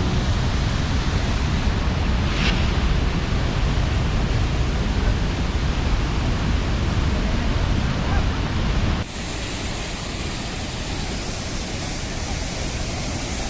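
Waterfall rushing: a steady, full noise with a heavy low rumble. About nine seconds in, it switches abruptly to a thinner, hissier rush with less rumble.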